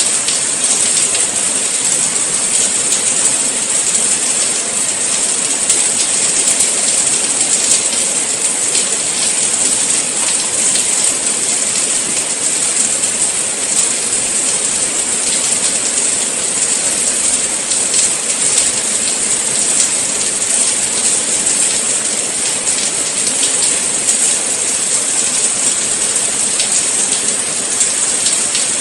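Steady rain falling, a dense even hiss with fine drop patter throughout.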